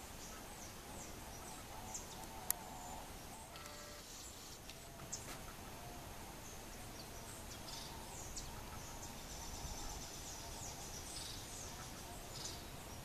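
Background of small birds giving many short, high, downward-sliding chirps over a steady hiss, with a single sharp tap about 2.5 s in and a fainter one near the middle.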